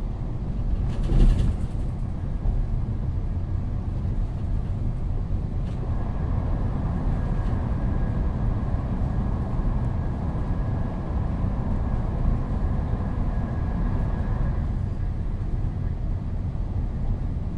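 Steady low rumble of a moving train heard from inside a carriage, with a sharp knock about a second in and a faint high whine from a few seconds in until near the end.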